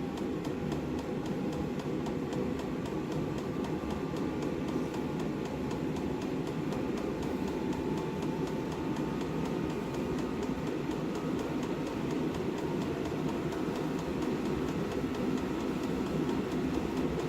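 Chinese diesel air heater running after start-up: a steady rush of combustion and blower fan, with a faint whine that rises slowly as the fan speeds up.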